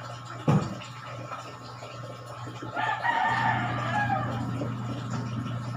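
A rooster crowing once, about three seconds in, for roughly a second and a half. There is a short low thump about half a second in, over a steady low hum.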